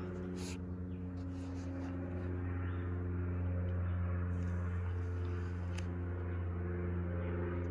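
A steady low mechanical hum with several held pitches, unchanging throughout.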